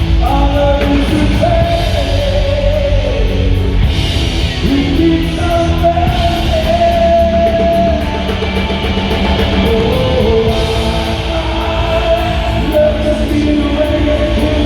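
Rock band playing live: guitars, bass and drums, with a sung melody in long held notes over them.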